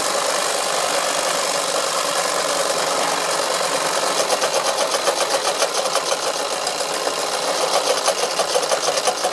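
Wilesco toy steam engine running and driving a model workshop saw as it cuts slowly into wood: a steady mechanical whirr that takes on a fast, even chatter from about four seconds in.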